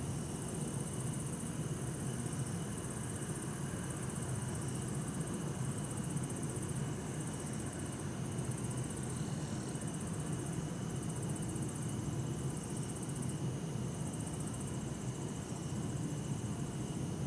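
Night chorus of insects, bell crickets among them, trilling steadily in high bands, one of them pulsing on and off about once a second. Underneath is a constant low rumble of distant town traffic.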